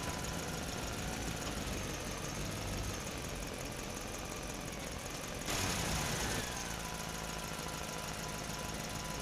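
Small electric motor running with a steady hum and whine, with a louder, noisier stretch of about a second some five and a half seconds in.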